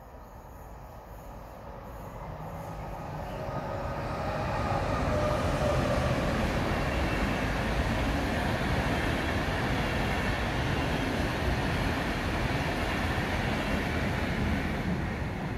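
An electric train approaching and passing on the main line, its wheel and rail noise building over the first five seconds, then steady, and easing near the end.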